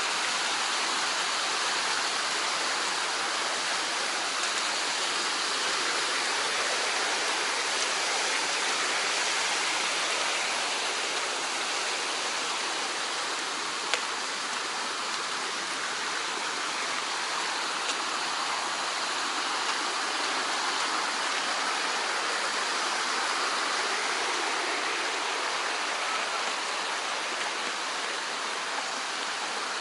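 Mountain stream rushing steadily over rocks, with one brief sharp tick about halfway through.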